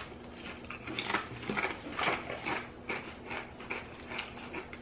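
A person chewing a crunchy Pringles crisp with the mouth close to the microphone: a run of short, irregular crunches, a few each second.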